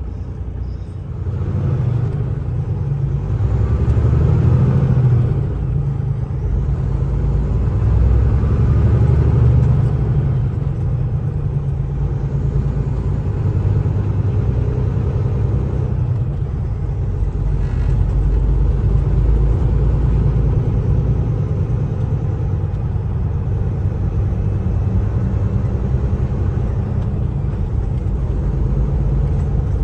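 Semi truck driving on the highway: a steady low engine and road rumble heard from inside the cab, swelling louder a couple of times in the first ten seconds.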